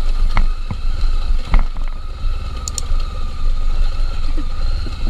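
Honda Tornado 250 trail motorcycle's single-cylinder four-stroke engine running as the bike rides over rough dirt, with a few sharp knocks from the bike over the ground.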